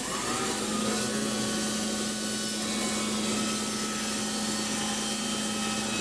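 Wood-Mizer band sawmill running steadily with a constant hum over a wide hiss, the head starting its slow pass on a hickory log; a short rising tone at the start as the machine comes up to speed.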